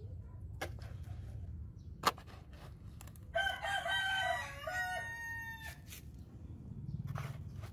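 A rooster crows once, a call of about two and a half seconds that steps down in pitch and starts a little before the middle. A sharp click comes about two seconds in, over a low steady hum.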